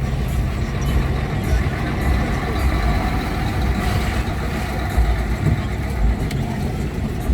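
Steady low engine rumble and road noise from a motor vehicle moving through town traffic.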